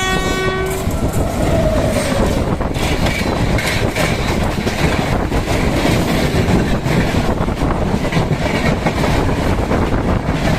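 A train horn holds a steady chord and cuts off about a second in. After that, a MEMU electric train runs at speed with a loud rumble and clatter of wheels on rail joints, heard from aboard.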